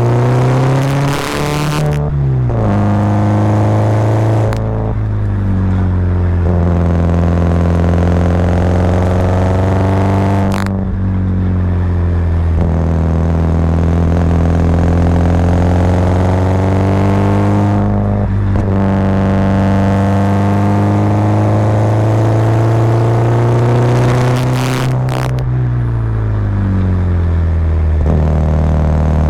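Subaru Impreza WRX's turbocharged flat-four engine pulling uphill under load, its pitch climbing slowly and then dropping sharply about five times at gear changes or lifts off the throttle. Brief bursts of hiss come near the start and near the end.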